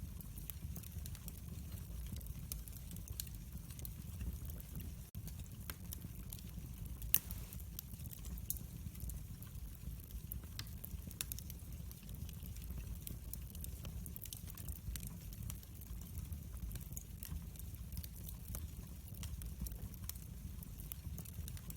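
Wood fire burning in a fireplace: a steady low rumble with scattered small crackles and pops, one sharper pop about seven seconds in.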